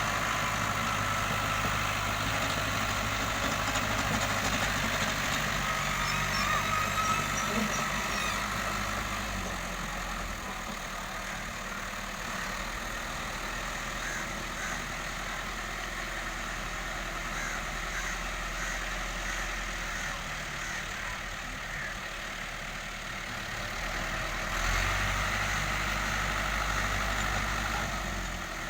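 Fiat 640 tractor's four-cylinder diesel engine running steadily. Its note drops and quietens about ten seconds in, then picks up again near the end.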